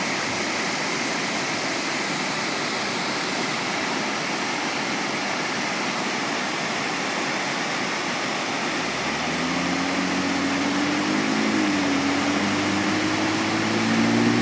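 Mill Pond waterfall rushing steadily. About two-thirds of the way in, an engine hum comes in over it, slowly rising in pitch and growing louder.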